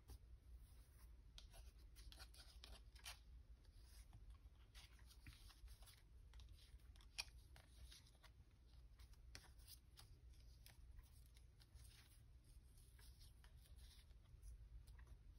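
Near silence with faint rustling and light taps of paper and fabric being handled, and one sharper click about seven seconds in, over a low steady hum.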